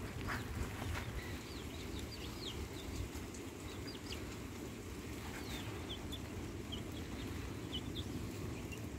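Birds chirping: many short, high-pitched falling chirps scattered through, over a steady low rumble.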